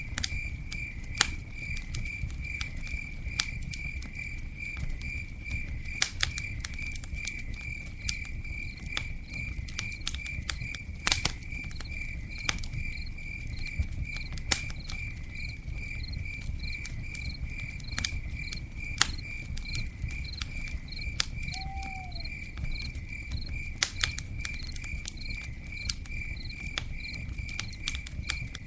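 Campfire crackling with irregular sharp pops over a low steady rumble of burning wood, while a cricket chirps steadily at a high pitch, about three to four pulses a second. A single short falling call sounds once about three quarters of the way through.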